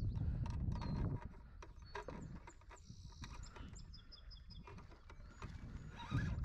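A bird singing a series of short, high chirping notes in the middle, over low buffeting noise on the microphone that is loudest near the start and the end.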